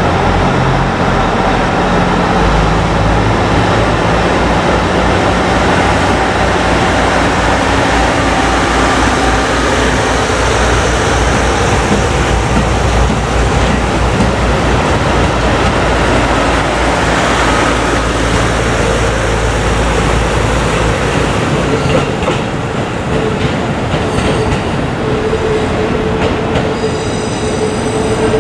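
A train running past close by: a steady rumble of wheels on the rails with a rhythmic clatter for most of the time, and a steady wheel squeal setting in near the end.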